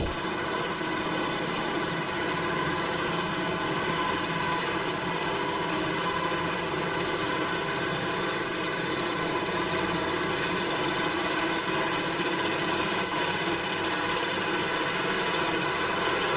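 A machine engine running steadily at an even speed, with a dense, unchanging hum of many tones.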